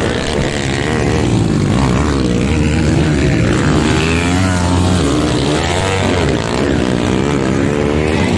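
Dirt bike engines running hard during a race, their pitch rising and falling as the riders open and close the throttle.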